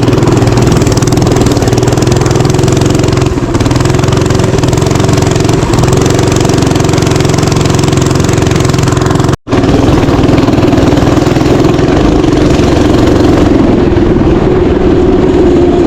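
Small mini bike engine running steadily, cutting out abruptly for a split second about nine seconds in.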